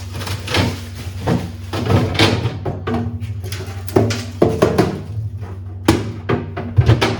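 Produce and containers being handled and set down on refrigerator shelves: a run of rustles, light knocks and thunks, with a sharper knock about six seconds in, over a steady low hum.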